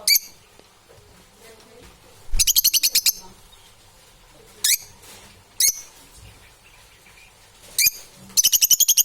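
Parrot calling: short shrill single calls and two quick runs of rapid, harsh chirps, about a dozen a second, one a little after two seconds in and one near the end.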